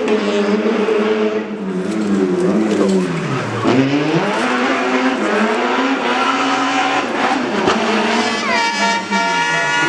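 Rally car engine working hard, its revs dropping sharply about three and a half seconds in and climbing again in steps through the gears. Near the end a high steady whine joins in.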